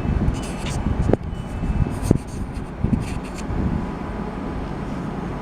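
Railway platform noise: a steady low rumble from the trains standing at the station, with two sharp knocks about a second apart and short high beeps in the first two seconds.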